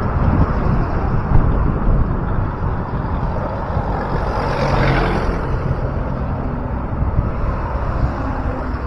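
Steady rumbling noise of a bicycle ride on city streets, wind and road rumble on the microphone, with a motor vehicle passing about five seconds in.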